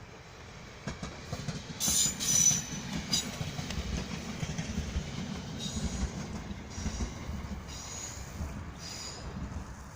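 Train rolling through a station with a steady low rumble and high-pitched metallic squeals, loudest about two seconds in, with fainter squeals again later.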